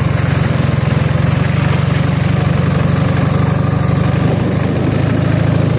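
Ural motorcycle's flat-twin engine running steadily with a rapid, even pulsing beat.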